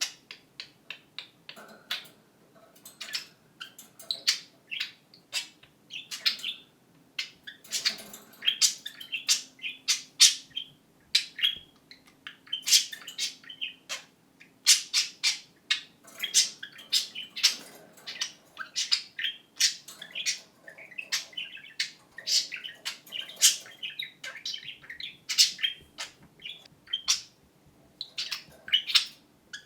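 Budgerigars chattering and warbling in quick, continuous chirps and sharp clicks. One budgie mimics a camera shutter click and, near the end, says "what a cute baby bird" in a small, chirpy voice.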